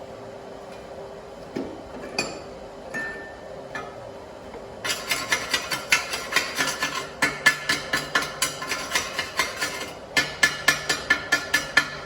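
Pulsed TIG welding arc ticking in a regular pulse of about four or five beats a second, in three runs with short breaks. A steady machine hum runs under it, and a few separate clicks come before the first run.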